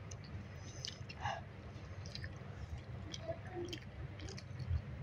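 A person chewing soft food close to the microphone: irregular small wet clicks and smacks over a low steady hum.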